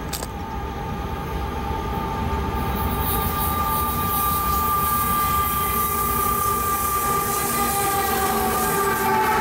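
Diesel-hauled freight oil train approaching and passing close by, its locomotives' rumble growing steadily louder. From about three seconds in, a chord of several steady high tones rides over it and dips slightly in pitch near the end.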